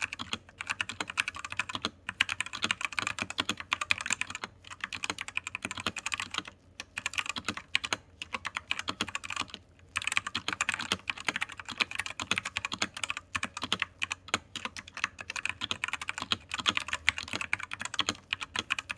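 Fast, continuous typing on a Royal Kludge RK84 mechanical keyboard with RK red linear switches and ABS keycaps, a dense run of key clacks with a few brief pauses.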